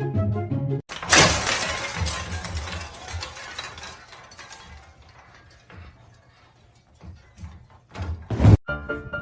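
A sudden loud crash about a second in, fading slowly over several seconds with scattered clicks and clatter, and another short loud burst near the end.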